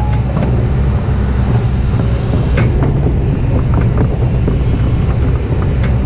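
Kobelco SK200-8 excavator's diesel engine running steadily while it works, with a few scattered clicks and knocks.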